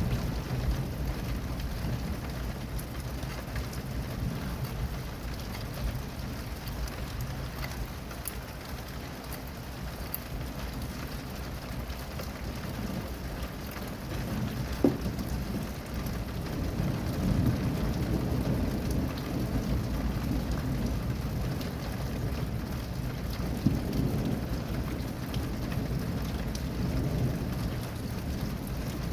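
Steady rain falling, with thunder rumbling low in the background; the rumble swells about halfway through and again near the end.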